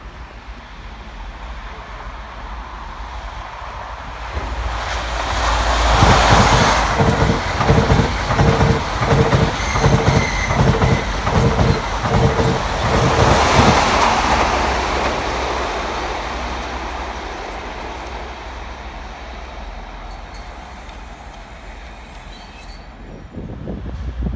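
An LNER express passenger train passing through the station: a swelling rush of wheels on rail with a regular clatter about twice a second and a steady whine, fading as it moves away. Near the end a second train is heard approaching.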